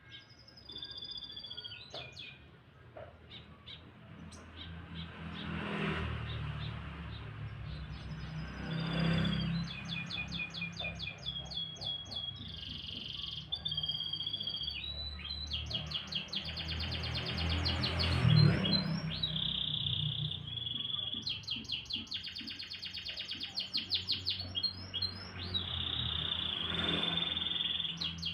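Domestic canary singing a long, continuous song of fast rattling trills alternating with clear held whistled notes.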